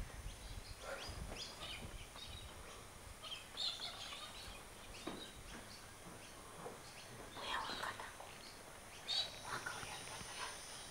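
Faint, scattered bird chirps over a quiet background, with a few low bumps in the first second or so.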